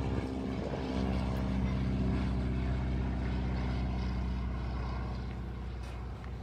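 Propeller plane's piston engine droning as it flies past, growing louder about a second in and slowly fading toward the end.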